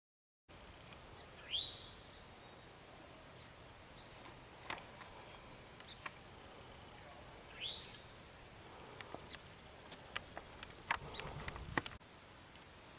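Faint outdoor ambience in which a bird gives two short rising calls several seconds apart. In the second half come a run of sharp clicks and some low rustling.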